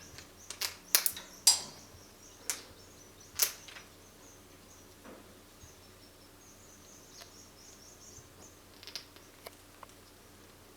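A series of sharp clicks and taps, most of them in the first few seconds and a few more near the end, over faint high bird chirping.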